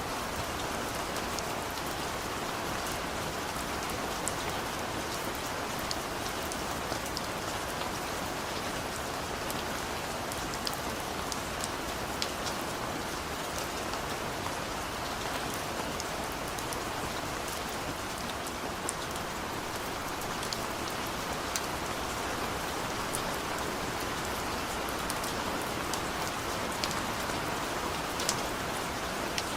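Steady rain falling, an even hiss of rain on surfaces with scattered sharp ticks of individual drops.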